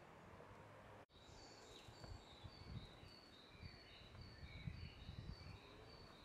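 Faint songbird singing a short high two-note phrase, a higher note then a lower one, repeated about twice a second. It starts about a second in, after a brief dropout, over faint low rumbles.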